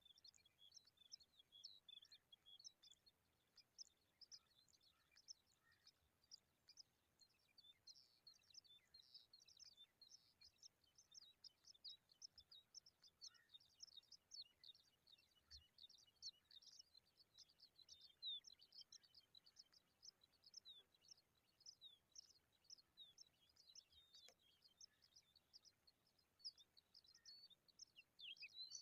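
Faint, rapid high-pitched chirping of small birds: many short chirps each second, in a steady stream.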